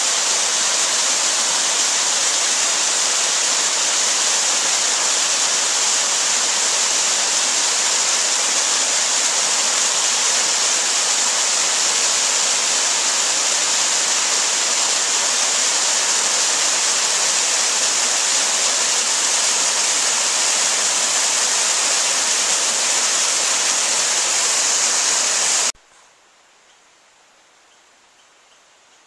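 Steady, loud rushing of water, an even hiss strongest in the high range. It cuts off suddenly about 26 seconds in, leaving only a faint hiss.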